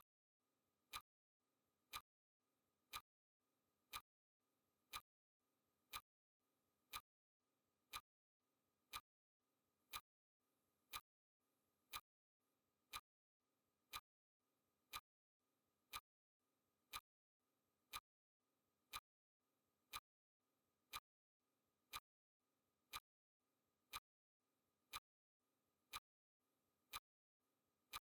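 Clock ticking sound effect: one short, sharp tick every second, evenly spaced, counting off the seconds of a countdown timer.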